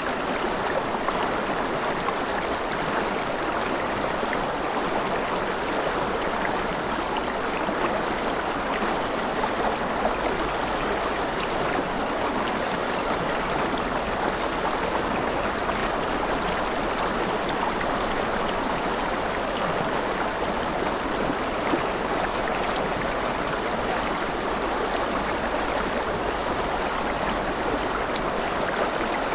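River water flowing and splashing, a steady, even rush with no breaks.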